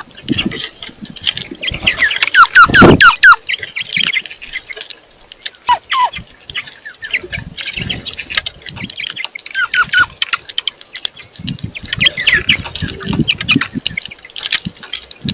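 Birds calling together while feeding, with many short, downward-sliding chirps, busiest about two seconds in and again near the end. Low thuds and knocks run under the calls.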